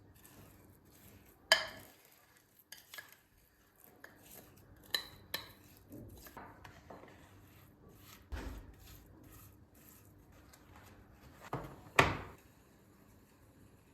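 Dishes and cutlery being handled: scattered clinks and knocks, the two loudest about a second and a half in and near the end, with a dull thump about eight seconds in.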